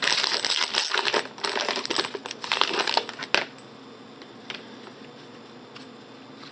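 Trading card pack wrapper crinkling and rustling as it is handled, for about three and a half seconds, ending in one sharp click. After that only a few faint ticks.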